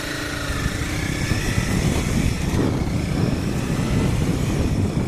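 2015 Honda CBR300R single-cylinder engine accelerating, its pitch rising as the level builds over the first couple of seconds, with wind rushing over the helmet microphone growing louder.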